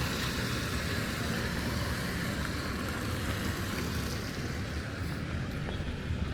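Road traffic noise: a vehicle passing, its high tyre hiss fading about four seconds in, over a constant low rumble.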